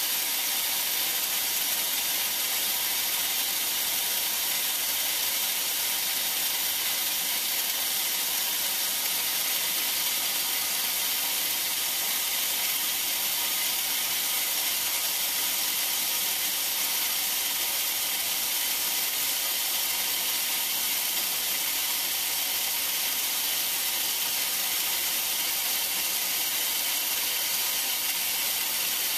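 Backup sump pump running: a steady, unchanging hiss of rushing water.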